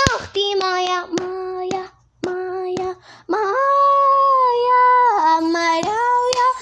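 A child singing a melody without accompaniment: a run of short notes, then one long held note, then a few more notes. Sharp clicks fall between some of the phrases.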